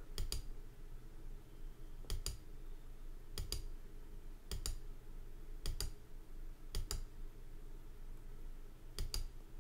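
Seven computer mouse clicks, each a quick press-and-release pair, spaced about a second apart with a longer gap before the last, over a faint steady low hum.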